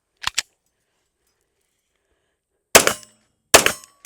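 Two quick clicks, then two 9mm shots from a SIG P320 DH3 pistol fired under a second apart near the end, with a third shot starting just as it ends.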